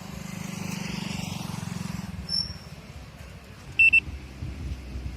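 Road traffic: a vehicle engine's low drone, then two quick high-pitched horn beeps about four seconds in.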